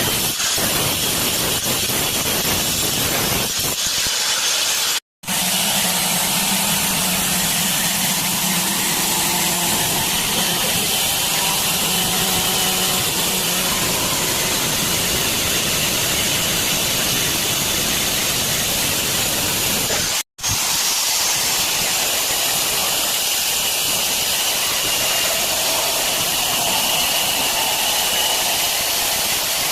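Steady hiss of water running from a tap, broken twice by a brief silent cut, about five seconds in and about twenty seconds in.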